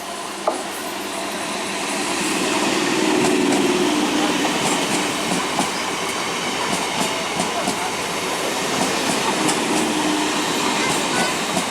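Electric multiple unit (EMU) train running on the track, its wheels clattering over rail joints in scattered clicks. The noise builds over the first three or four seconds, then stays steady.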